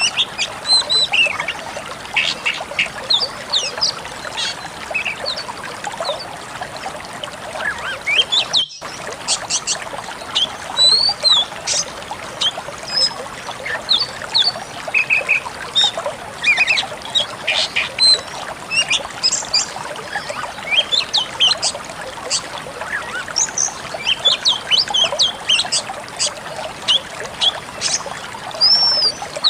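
Pied bushchat (decu kembang) song: quick, sharp chirps and short whistles, one after another, over a steady hiss, with a brief break about nine seconds in.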